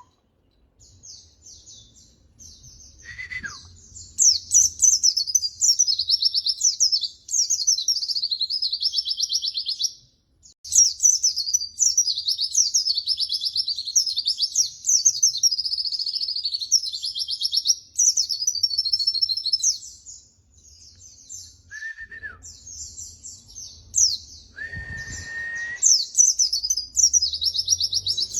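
White-eye (pleci) singing long runs of fast, high twittering song in stretches of several seconds, with short pauses between them. A few brief, steady, lower whistled notes come in between the runs.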